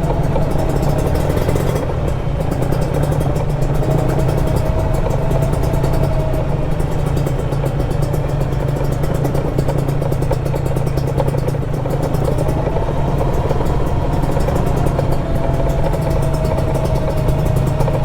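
Kawasaki Ninja 150 RR single-cylinder two-stroke engine running steadily under way, its pitch drifting gently up and down as the throttle changes.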